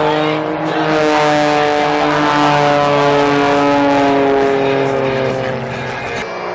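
Aircraft engine passing by, its tones slowly falling in pitch as it goes past, loudest in the middle.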